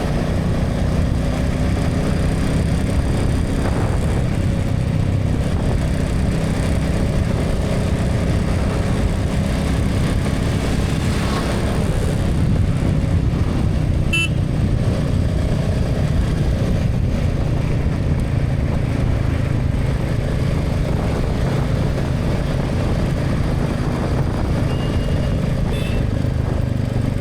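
Motorcycle running steadily through highway traffic, heard from a helmet camera as a constant low engine and road rumble. Short horn toots sound about halfway through and again near the end.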